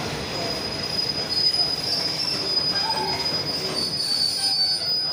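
Passenger train coaches rolling along a station platform, their wheels and running gear rumbling, with a steady high-pitched wheel squeal that sets in about a second and a half in and holds on.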